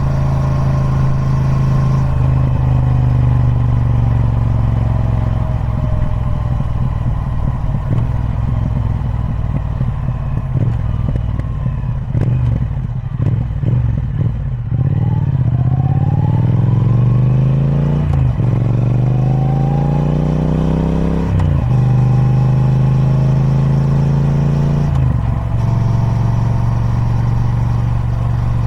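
Triumph Speed Twin 1200's parallel-twin engine through its stock exhaust, running steadily at first, then accelerating midway with the note rising through two upshifts, each marked by a brief break, before settling back to steady cruising.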